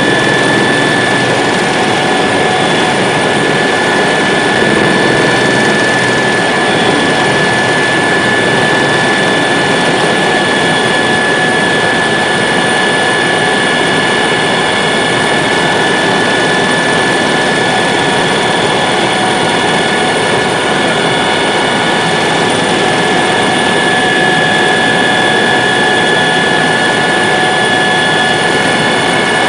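Helicopter in flight heard from inside the cabin: a loud, steady engine and rotor noise with a constant high-pitched whine on top, unchanging throughout.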